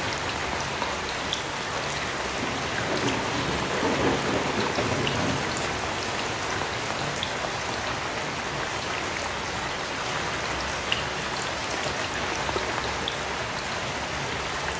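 Heavy rain falling steadily, a dense hiss of rain with scattered individual drops ticking sharply through it.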